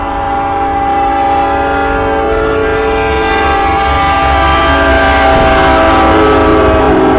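Train horn blowing one long continuous blast, a chord of several held tones that grows steadily louder, over the low rumble of the train.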